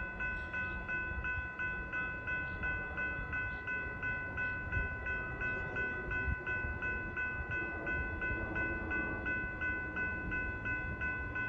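Railroad crossing bell ringing rapidly and evenly, about three strokes a second, the warning that a train is approaching. A low rumble runs underneath.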